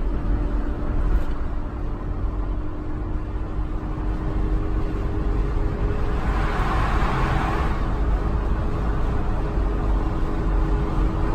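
Steady road noise and engine drone of a car driving at highway speed, heard from inside the cabin, with a low rumble and a faint steady hum. A rushing swell rises and fades about six seconds in.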